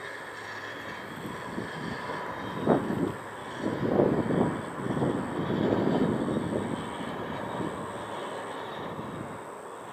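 Jet airliner engine noise heard at a distance: a steady hum with faint high steady tones. Several irregular louder bursts come in the middle few seconds.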